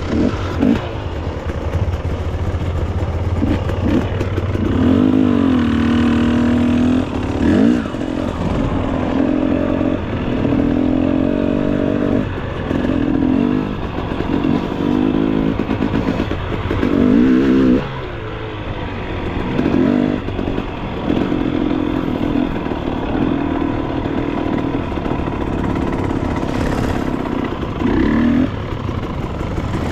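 Dirt bike engine ridden off-road, the throttle opened and closed again and again so the revs rise and fall every second or two, with short knocks mixed in.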